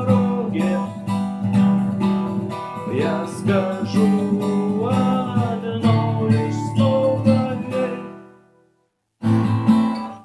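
Acoustic guitar strummed in a steady rhythm of struck chords, with a few sliding notes; it dies away about eight seconds in, then one short strummed chord sounds near the end and cuts off.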